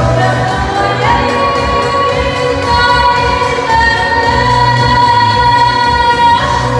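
Singing over musical accompaniment: the closing phrase of the song, ending in one long held note.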